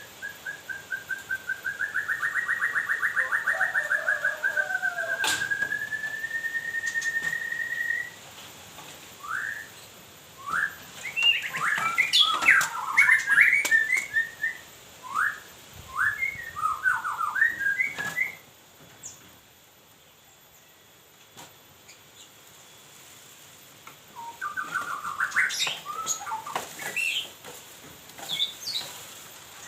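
Songbird singing: a long, fast rattling trill held for several seconds that rises at its close, then bursts of short whistled notes and chirps, a pause of several seconds, and more chirping near the end. A few sharp clicks sound between the phrases.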